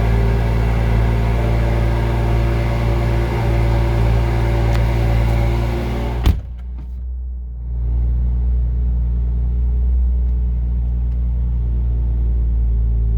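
BMW M2's 3.0-litre turbocharged straight-six idling after a cold start, with a vibrating buzz through the M Performance exhaust that is common on these exhausts at cold start. About six seconds in there is a sharp click, the sound dips for a moment, then it settles back to a steady idle.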